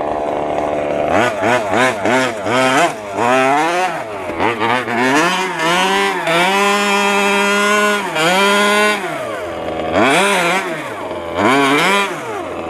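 Small two-stroke petrol engine of a large-scale FG RC stadium truck running under throttle. Its pitch rises and falls with repeated revving, held high for about three seconds in the middle.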